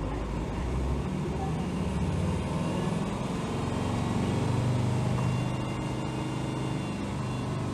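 Hino Rainbow HR city bus (BDG-HR7JPBE) under way, heard inside the cabin: its diesel engine pulls with a note that strengthens and rises a little from about three seconds in, is loudest a little after four seconds, then eases, over steady road noise.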